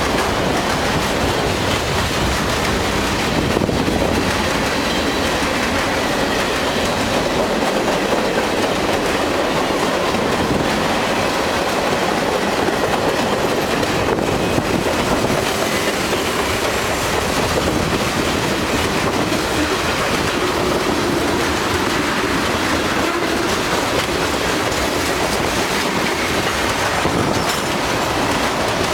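CSX freight train's cars rolling past, steel wheels running on the rails in a steady, unbroken rumble.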